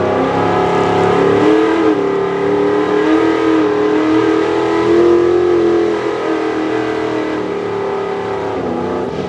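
Pro Stock 4x4 pulling truck's engine at full throttle on a pull, its pitch climbing about two seconds in, holding high, then dropping off about six seconds in. The revs flare as the tires break loose on a slick track.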